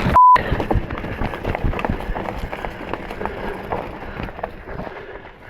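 Specialized Stumpjumper mountain bike rolling over rocks and roots: dense small knocks and rattles from the tyres, chain and frame, with a low rumble, fading toward the end. A short bleep tone sounds just after the start.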